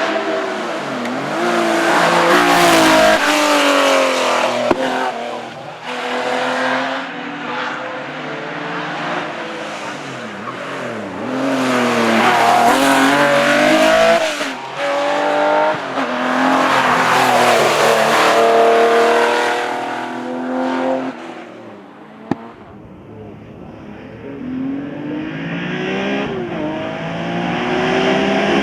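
Porsche 911 Carrera RSR flat-six heard from inside the car, revving hard up through the gears with repeated rises in pitch and sharp drops at each shift. It eases off to a quieter low rev about three-quarters of the way through, then climbs again.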